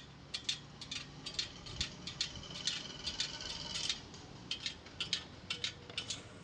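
Light metallic clicks and ticks coming irregularly, several a second, from hands-on work on a spoked motorcycle wheel rim, with a faint thin ringing tone for about a second and a half midway.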